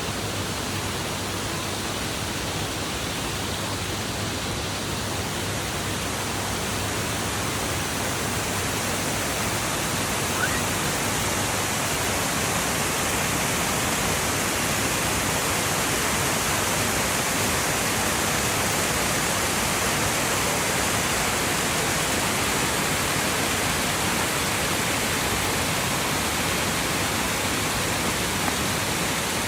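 Rushing water: a steady, even hiss with no breaks, growing slightly louder over the first half.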